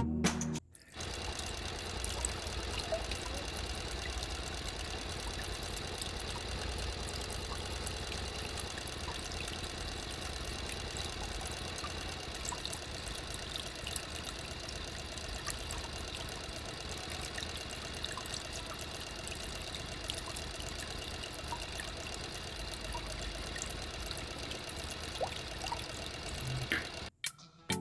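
Small motor-driven mini water pump running steadily, with water pouring and trickling; it starts about a second in and cuts off suddenly near the end.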